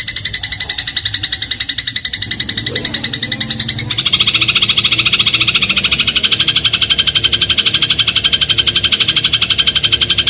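Eurasian tree sparrow giving a rapid, unbroken trill of identical high notes, dropping to a lower pitch about four seconds in.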